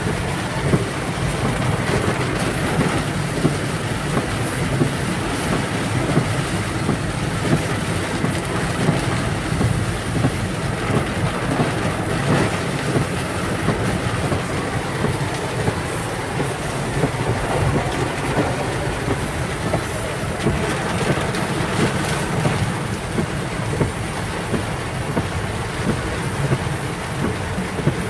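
Heavy rain pelting a Toyota Kijang Krista: a steady, dense patter with a low rumble underneath and frequent sharper hits.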